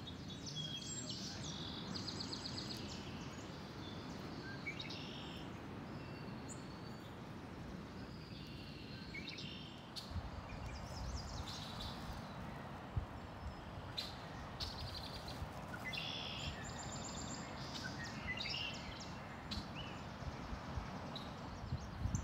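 Woodland ambience with several songbirds chirping and trilling on and off over a steady low background hiss; from about ten seconds in, a low rumble joins underneath.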